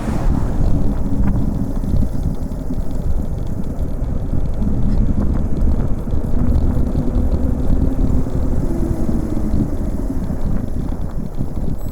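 Wind buffeting a helmet-mounted action camera's microphone during a fast bicycle descent: a steady low rumble.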